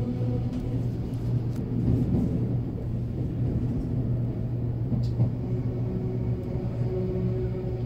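S-Bahn electric train running at speed across a steel bridge, heard from inside the carriage: a steady rumble with a low humming tone and a few light clicks, the sharpest about five seconds in.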